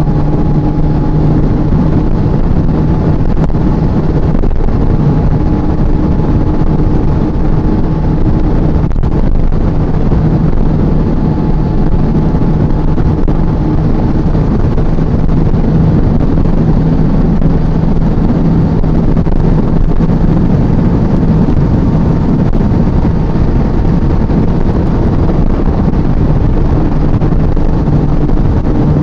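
Honda CB400SF's inline-four engine running at a steady cruise, heard from on board the moving motorcycle, with wind rushing over the microphone.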